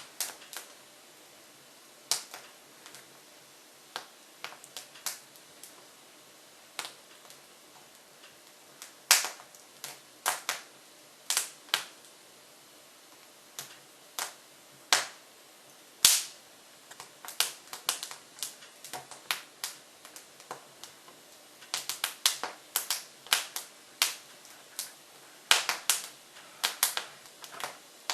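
Hardwood logs burning in a Jøtul F500 wood stove with its front door open, crackling with irregular sharp pops and snaps that come thicker in the second half.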